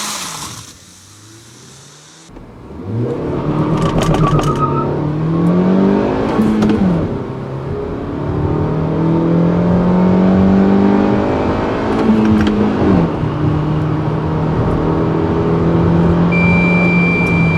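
Kia Soul's 1.6 GDI four-cylinder petrol engine accelerating hard from a standstill. After a quiet first two seconds the revs climb, drop at gear changes about seven and thirteen seconds in, then hold high. A steady high beep sounds near the end.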